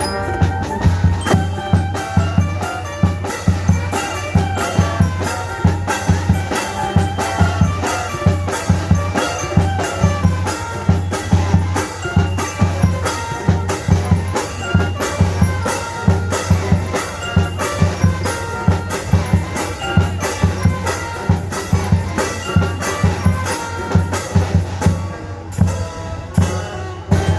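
Band music with drums and a steady beat, the drums struck under a running melody; the music thins out briefly near the end.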